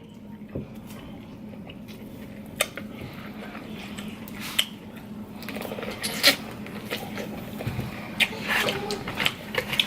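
Eating a crab-and-lobster seafood boil by hand: scattered sharp cracks and clicks of shells being broken open, with wet squishing of buttery seafood being picked apart and chewed.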